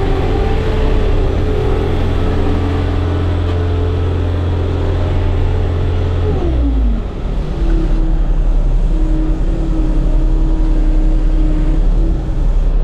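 Bobcat skid steer's diesel engine running with a steady whine over a deep drone. A little past halfway the whine slides down in pitch and settles at a lower, steady note.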